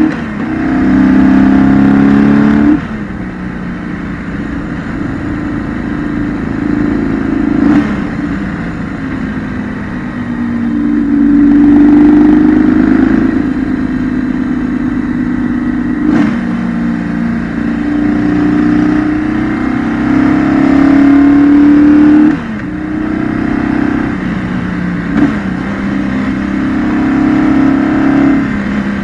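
A 2008 BMW R1200GS's boxer twin engine, heard onboard while the bike is ridden through mountain curves. It pulls hard and rises in pitch several times, and the throttle shuts off sharply about three seconds in and again near the end. In between it runs quieter at lower load, with a few short clicks.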